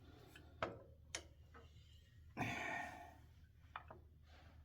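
A few faint, scattered clicks and a short scrape as hand tools are handled during engine work.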